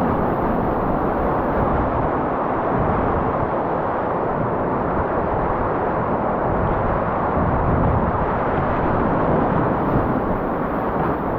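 Steady roar of rushing whitewater in a river rapid, loud and unbroken.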